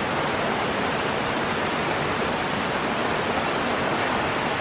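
Waterfall rushing steadily, a dense even roar of falling water.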